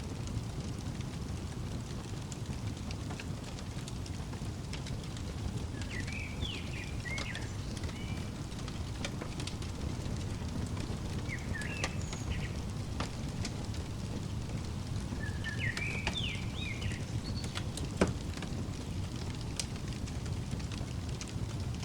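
Wood fire crackling: a steady low rumble with scattered sharp pops, one loud pop near the end. Songbird chirps in short phrases three times over it.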